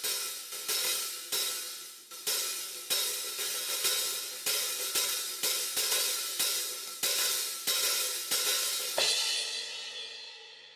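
A cymbal from an Istanbul Mehmet IMC Brilliant set, played alone with no drums and struck steadily about twice a second, each stroke leaving a bright, ringing wash. The last stroke, about nine seconds in, is left to ring and fade out.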